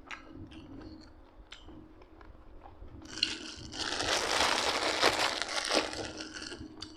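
Close-up eating sounds: scattered small mouth clicks and smacks, then from about three seconds in a loud crinkling, rustling noise lasting about three seconds.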